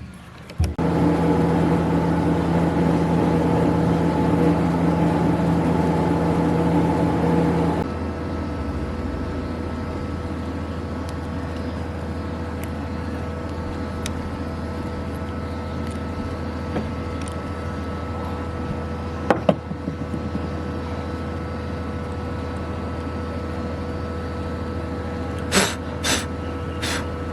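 A machine running steadily: a louder, fuller hum for the first eight seconds or so drops to a lower, even hum that carries on, with a few short sharp clicks near the end.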